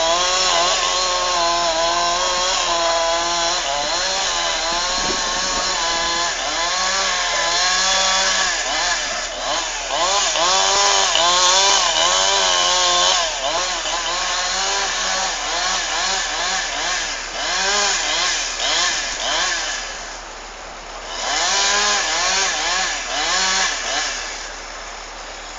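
Two-stroke chainsaw cutting into a tree trunk to fell it, the engine pitch swinging up and down repeatedly as the chain loads in the cut. It eases to a lower, quieter run about twenty seconds in and again near the end.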